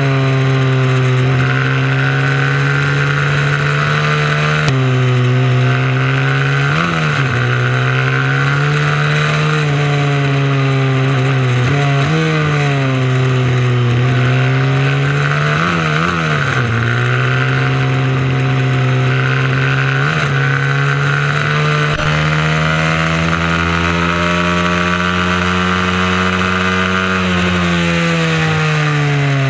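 Mini moto racing motorcycle engine running hard at race pace, its pitch rising and falling through corners with several quick dips and blips, as in braking and gear changes. Around 7 and 16 seconds in, a second engine's pitch briefly crosses it, as another bike comes close.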